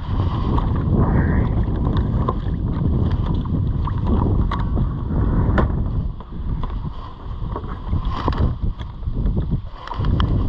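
Jon boat underway across a lake, with wind buffeting the microphone and scattered sharp knocks of the hull against small waves.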